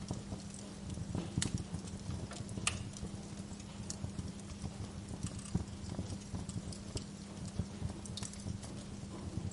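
Wood fire crackling, with irregular sharp pops and snaps over a low, steady hum.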